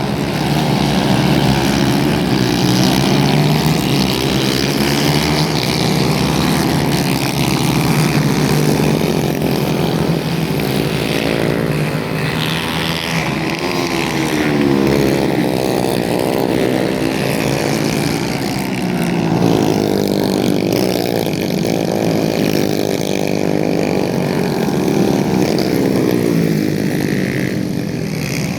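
Several racing kart engines running at once, their pitches rising and falling out of step as the karts speed up and slow through the corners.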